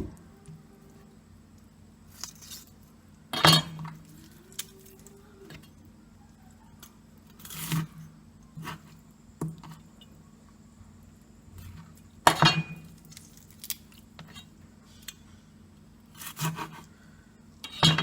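Scattered clinks and knocks of kitchen dishes and utensils being handled, about eight separate sharp sounds with pauses between them, the loudest about three seconds in and again about twelve seconds in.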